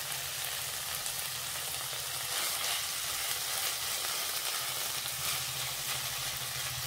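Small fish and pumpkin flowers in mustard paste sizzling steadily in a non-stick kadai while being stirred with a silicone spatula.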